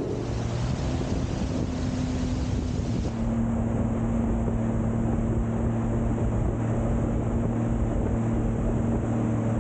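Sea-Doo GTI 130 jet ski's three-cylinder Rotax engine running at a steady cruise, with wind and water rushing past.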